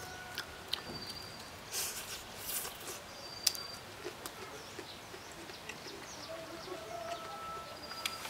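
Faint outdoor ambience with a few short, high bird chirps and some soft clicks.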